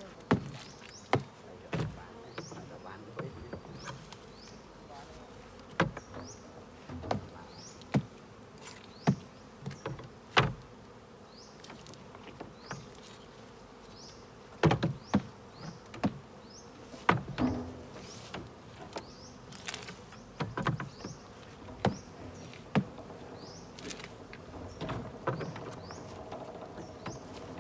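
Honeybees buzzing in a steady low hum, with irregular sharp clicks and knocks throughout, loudest of all, and short faint high chirps scattered between them.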